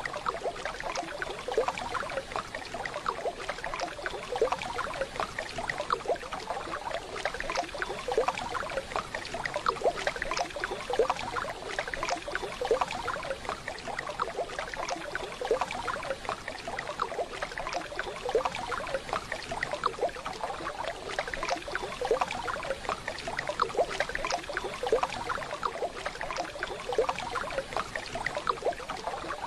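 Waterfall: steady rushing water, full of small splashes.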